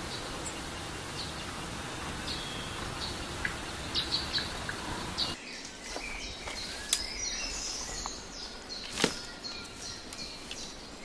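Birds chirping over a steady hiss of outdoor background noise. About halfway through the hiss drops away abruptly while the chirps continue, and two sharp clicks follow, the second the loudest sound.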